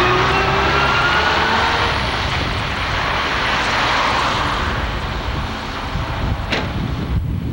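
A 1977 Chevrolet Blazer's engine revving hard under load while the truck is stuck in a snowy ditch. Its pitch climbs slowly at first over a heavy rushing noise. A sharp click comes near the end, just before the higher sound drops off.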